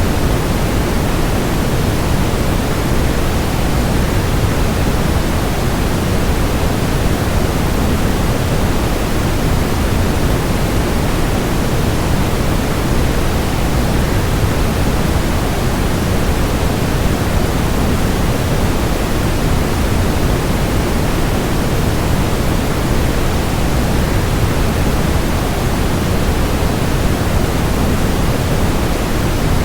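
Steady rushing of a waterfall, even and unbroken, heavier in the low end than the high.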